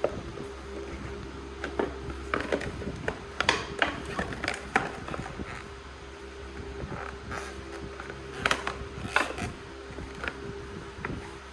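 Irregular clicks, clinks and knocks of metal tools and parts being handled during motorcycle fork work, thickest in the middle, over a steady hum.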